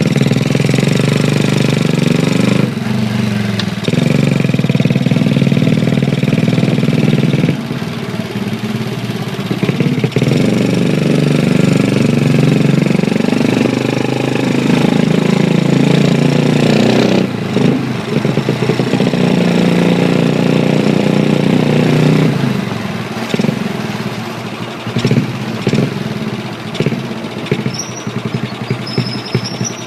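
Honda Chaly minibike with a Wave 100 single-cylinder four-stroke engine running under way. The engine pitch rises and falls over and over with throttle and gear changes, then drops to a lower, less steady sound about 22 seconds in as the bike eases off.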